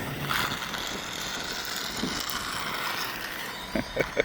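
Losi ProMoto electric RC dirt bike running, a steady mechanical whirr from its motor and gear drive, with a couple of short clicks near the end.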